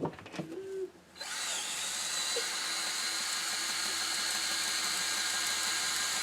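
A small power tool's motor starts about a second in and then runs at a steady speed, with a constant whine.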